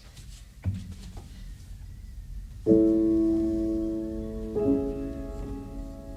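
Background piano music: slow, sustained chords come in about a third of the way through, with a new chord about two seconds later. Before the chords there are only a few faint knocks over a low rumble.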